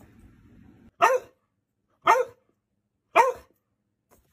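A dog barking three times, short single barks about a second apart.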